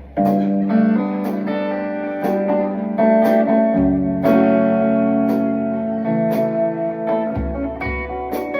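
Guitar music: sustained, ringing guitar notes and chords over a steady high tick that keeps time about every three-quarters of a second.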